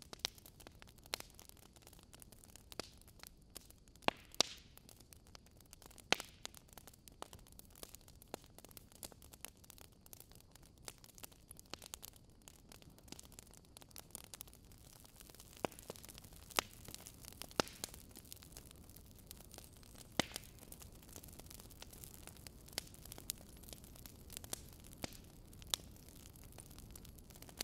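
Wood fire crackling over a soft steady hiss, with irregular sharp pops, a few of them louder than the rest.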